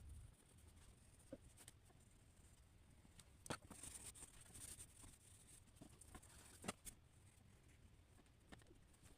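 Faint scratching of a drawing tool moving across paper for a second or two in the middle, with a few light ticks as it touches down. Otherwise near silence.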